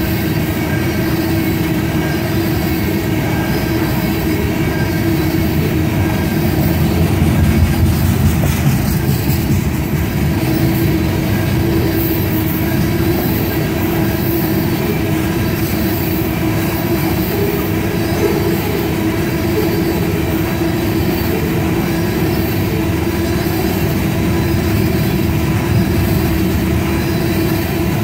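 Loaded crude-oil tank cars of a unit train rolling past steadily on the rails, with a steady tone running over the rumble of the wheels.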